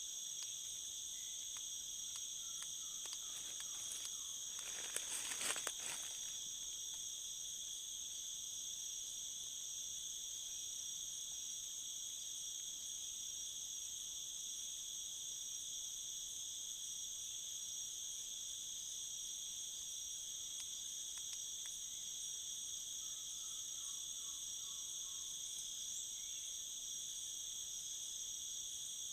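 Steady, high-pitched insect chorus that runs on unbroken, with a short rustling burst about five seconds in.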